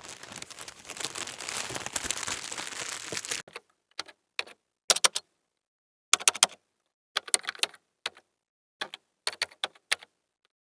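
Keyboard typing in short bursts of quick clicks, with gaps of silence between them, after a dense rush of noise in the first three seconds or so.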